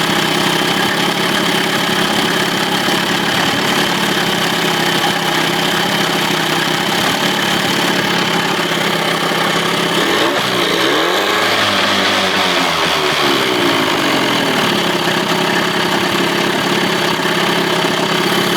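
2000 Johnson 25 hp two-stroke outboard idling steadily, its low-speed mixture screw just backed out a quarter to half a turn to cure a lean sneeze. Its note wavers for a few seconds about ten seconds in.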